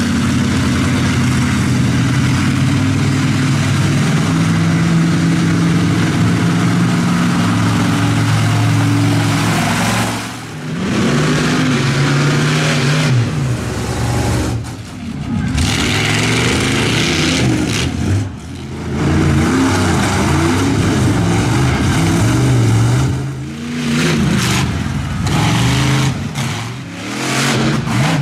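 Monster truck engines revving hard, the pitch climbing and falling as the throttle is worked, with brief lifts off the throttle a few times.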